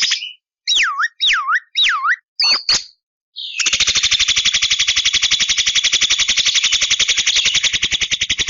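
Javan myna singing: three looping whistled notes that swoop down and back up, then two short calls. About three and a half seconds in, it breaks into a long, fast, even rattling churr.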